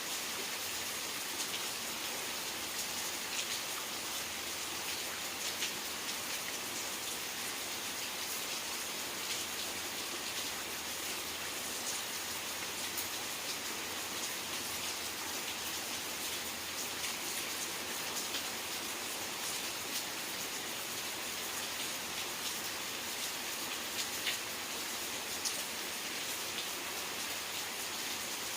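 Steady rain falling: a constant hiss with scattered individual drops ticking.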